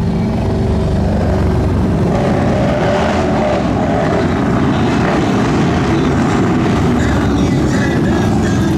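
Motorcycle engines running loud and steady, a dense continuous engine rumble.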